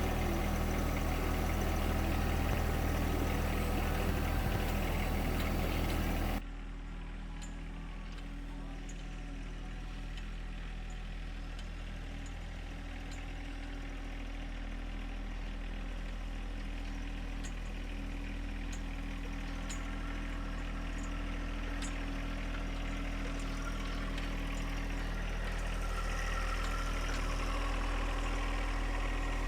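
Homemade concrete mixer running steadily with an even engine-like drone. About six seconds in the sound drops abruptly to a quieter, thinner version of the same steady running, then slowly grows louder again.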